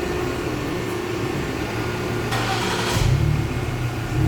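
Ford Explorer's engine cranking and starting on a cold start about three seconds in, its revs flaring up, heard through a freshly fitted MagnaFlow muffler exhaust. Before it fires there is a steady mechanical hum.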